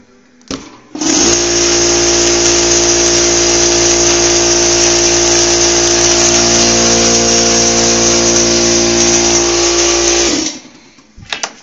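A compressor's electric motor switches on about a second in, runs loud and steady with a hum, and shuts off near the end. It is framed by a few short clicks.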